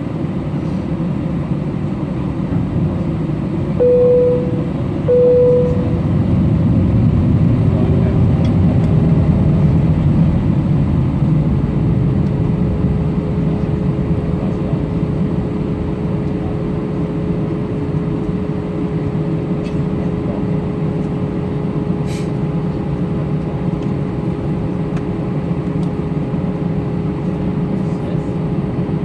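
Steady low rumble of a jet airliner, with two short electronic beeps about four and five seconds in, then a whine that rises in pitch and holds steady.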